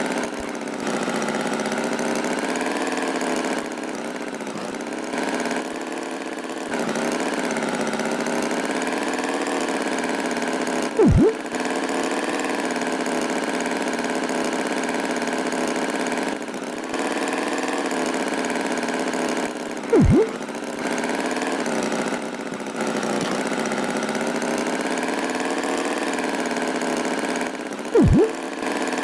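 Cartoon tractor engine sound effect running steadily, dipping briefly every few seconds as if looped. Three short, loud swooping sounds come at roughly ten-second intervals.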